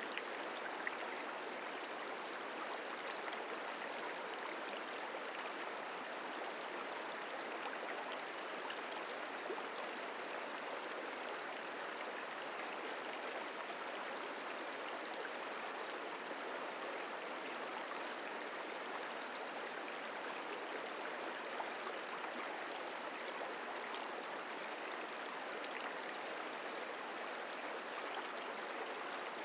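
Merced River flowing: a steady rush of moving water that does not change.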